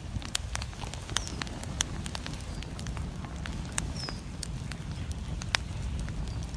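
Wood fire crackling with irregular sharp pops, over a steady low rumble.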